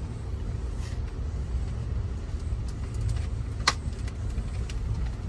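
Steady low rumble of an Amtrak Auto Train passenger car rolling along the track, heard from inside, with a few faint ticks and one sharp click a little past halfway.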